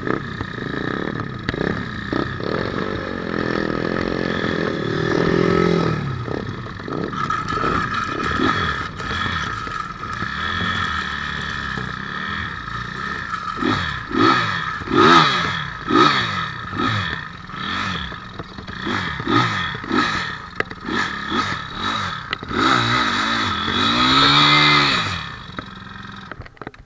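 160cc speedway bike's single-cylinder engine running and being blipped, the revs rising and falling again and again, then stopping near the end as the bike is parked.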